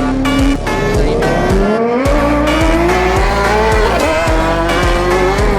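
Superbike engine accelerating hard, its pitch rising steadily with breaks about half a second in and near four seconds in like gear changes, over background music with a steady beat.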